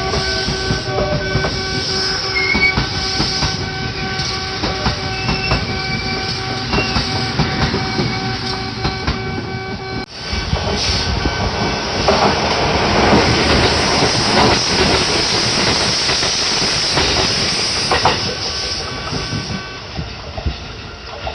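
Kintetsu Nagoya Line trains running past a level crossing, wheels clacking, while the crossing's warning bell rings on steadily. About halfway through the sound breaks off for a moment, then a louder train passes.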